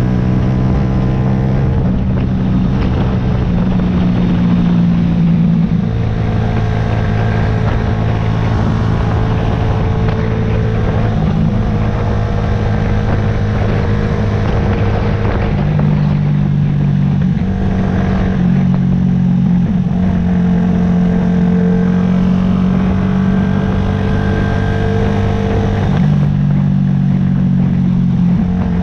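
2009 Yamaha YZF-R125's single-cylinder four-stroke engine running on the move, its steady note stepping up and down in pitch several times as the throttle and gears change.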